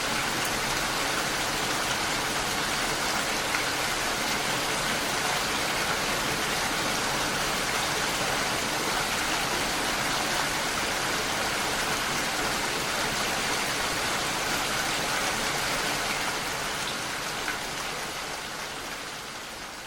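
Steady rain falling, an even hiss of drops with no single strikes standing out, fading out gradually in the last few seconds.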